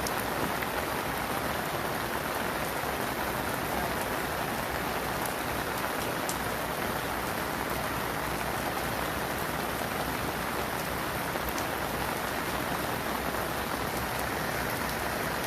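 Steady heavy rain falling, a continuous patter of drops on hard surfaces.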